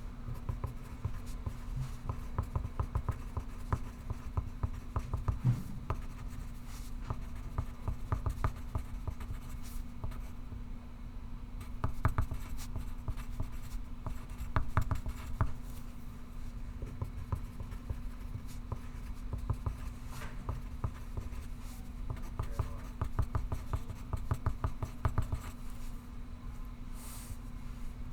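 Pencil writing on paper: quick, irregular scratching strokes that come in runs with short pauses, over a steady low room hum.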